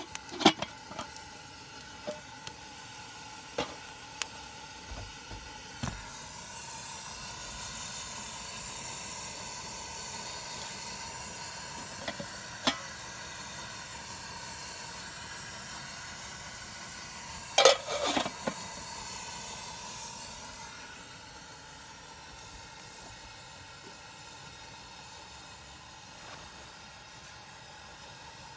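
Food sizzling in a pan, with a few sharp clinks of utensils against cookware. The sizzling swells about six seconds in and falls back at about twenty seconds, and a cluster of clinks comes at about eighteen seconds.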